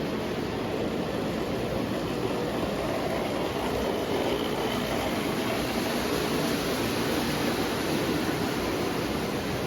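Marx O gauge toy train running on tinplate three-rail track: a steady rumble of the motor and wheels.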